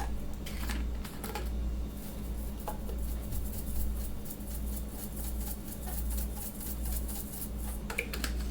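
Rapid light clicking and tapping of kitchen utensils, densest in the middle stretch, over a steady low hum.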